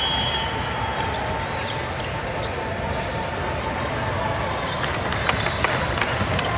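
A basketball bouncing on a gym floor over the steady background noise of a game in an indoor court, with a quick series of sharp bounces near the end.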